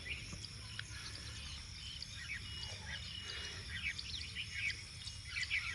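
Outdoor nature ambience: many short bird chirps and calls over a steady high insect trill, with a low rumble underneath.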